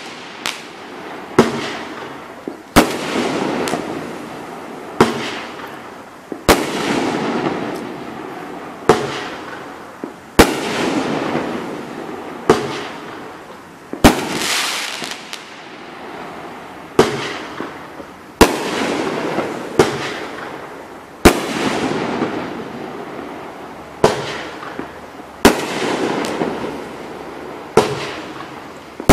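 The Great American Fireworks Co. One If by Land, a 500-gram repeater cake, firing shot after shot: a sharp bang about every one and a half to two and a half seconds, each followed by a fading crackle of the bursting stars.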